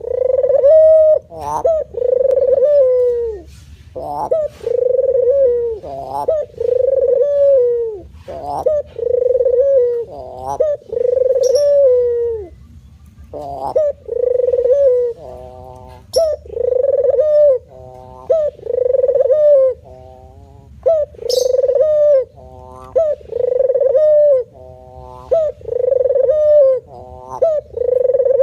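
A male puter dove cooing over and over in its manggung call: a run of low, rolling coos, each about a second long, coming one after another with a short break about halfway through. Faint short chirps from other birds sound now and then.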